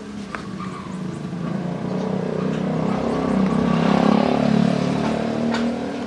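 A motor running steadily, growing louder toward the middle and easing slightly near the end, typical of a motorised woodworking tool working wood.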